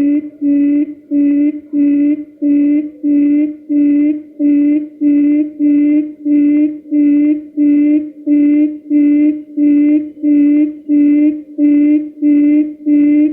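Quail lure call, a recording used to draw wild quail to a trap: a short low note repeated evenly about every 0.6 seconds, loud and unchanging.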